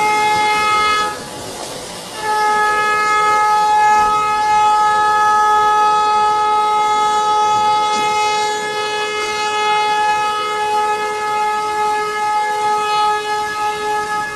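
A boat's horn sounding a long, steady blast for a new boat's launch, breaking off briefly about a second in and then sounding again and holding on.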